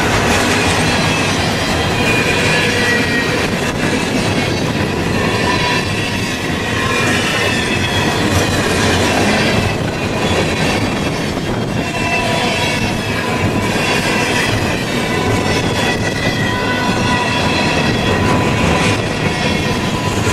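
Freight train cars rolling past steadily, wheels clattering over the rails with thin, wavering squeals of wheel on rail.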